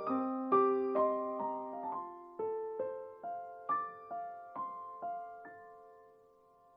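Background music: a slow solo piano melody of single struck notes left to ring, thinning out and fading to a pause near the end.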